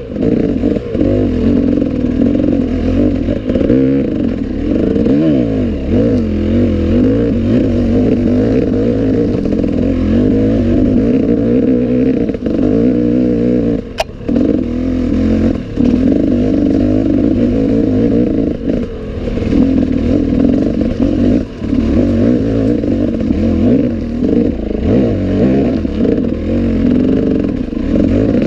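Enduro motorcycle engine running hard, its pitch rising and falling continuously as the throttle works, with rattling from the bike. A single sharp click about halfway through.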